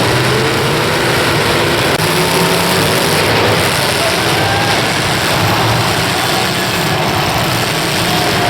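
Engines of several demolition derby cars running and revving at once, a loud, continuous din with wavering pitch.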